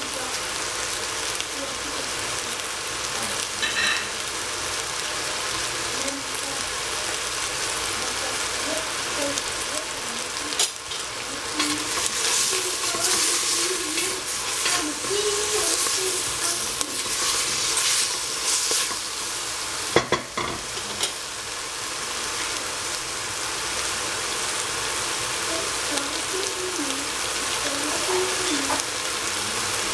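Kale sizzling as it sautés in a stainless steel pot, with a wooden spatula stirring and scraping it through the middle stretch. A single sharp knock comes about two-thirds of the way through.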